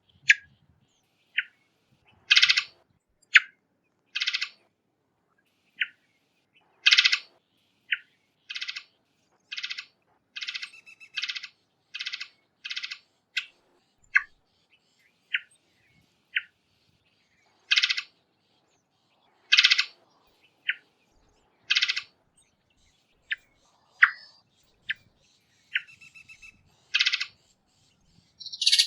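Varied thrush calling: a long series of short calls at irregular intervals, a few of them buzzy.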